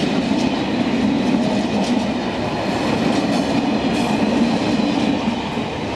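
Tank wagons of a freight oil train rolling past, a loud, steady rumble of wheels on rail with intermittent clicks as the wheels cross rail joints.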